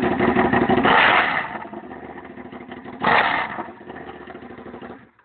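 Honda VTR1000 SP1's V-twin engine running with its silencers removed, open and loud: held at raised revs with a peak about a second in, dropping back to idle, one more short throttle blip about three seconds in, then the sound cuts off abruptly just before the end.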